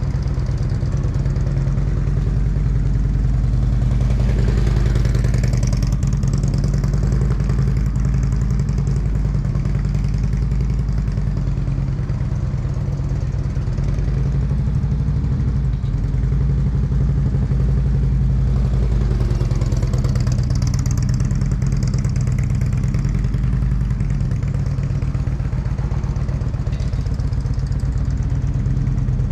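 Motorcycle engine running at low speed, steady throughout, swelling twice, about fifteen seconds apart, as it does slow U-turns between cones.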